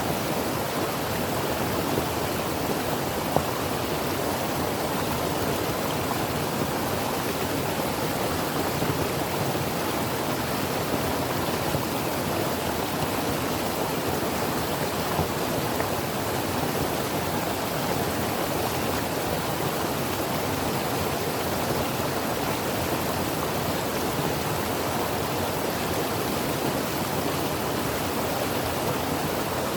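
Creek water running in a steady, even rush, with a couple of brief slightly louder moments.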